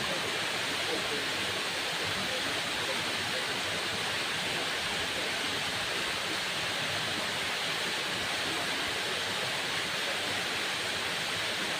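Waterfall: falling water making a steady, even rush, strongest in the upper-middle range, with no change through the stretch.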